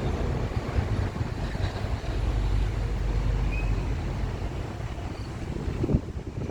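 Low, steady rumble of a Boeing 787-9 jet airliner flying over on its arrival, swelling about halfway through, mixed with wind buffeting the microphone.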